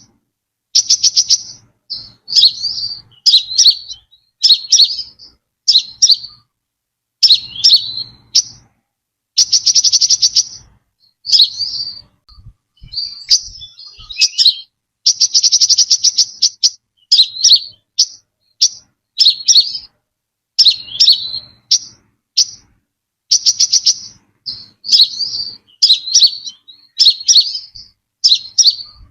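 Brown-throated sunbird calling: short, sharp high chirps about once a second, broken by several longer, fast rattling trills.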